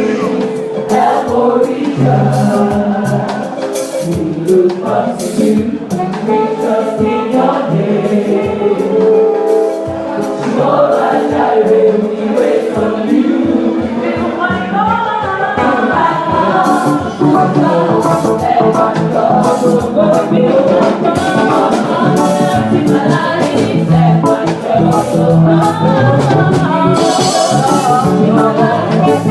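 Church choir singing a gospel anthem over a percussive beat with instrumental backing.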